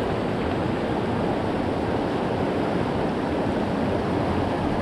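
Creek water rushing steadily, an even hiss-like noise with no breaks.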